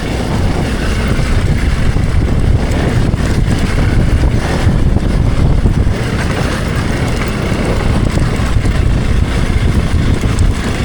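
Hero Xpulse Pro motorcycle's single-cylinder engine running under load while riding off-road, loud and rough.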